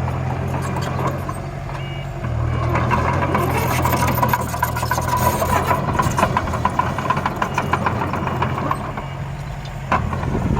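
Diesel engine of a small dump truck or bulldozer running steadily, with rattling and clattering through the middle of the stretch.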